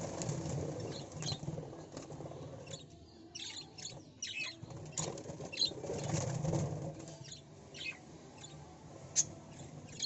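A bird giving short, high chirps, scattered and sometimes in quick runs, over a low rushing noise that swells and fades twice.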